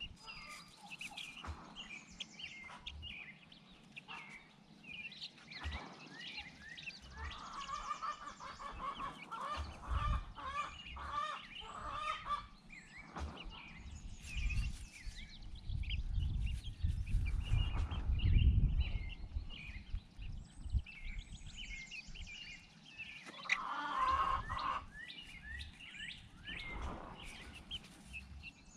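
Backyard poultry calling: a continual chatter of short high chirps, with spells of louder, lower calls about a quarter of the way in and again near the end. In the middle there is a low rumble that is louder than the birds.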